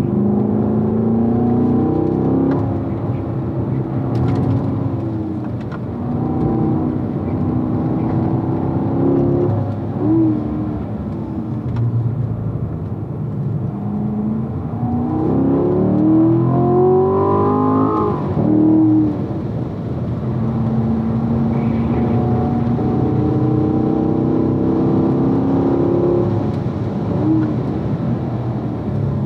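2016 Corvette's V8 engine heard from inside the car on a track lap, revving up and down with the throttle and gear changes. Its pitch climbs under acceleration, with the longest climb about halfway through, and drops back at upshifts and when lifting for corners.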